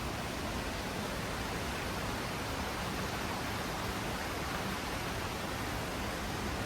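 Steady, unbroken rush of falling water from a waterfall, an even hiss with no separate splashes.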